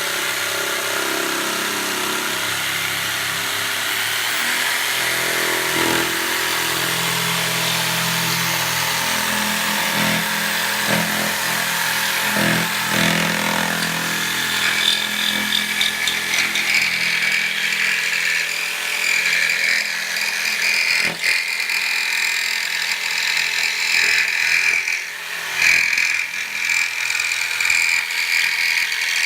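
Bosch JS572EB barrel-grip jigsaw running and scroll-cutting wood. About halfway through the sound climbs higher as the saw is revved up, and a high-pitched chattering comes in, which the owner puts down to a poor cutting bench and an older blade.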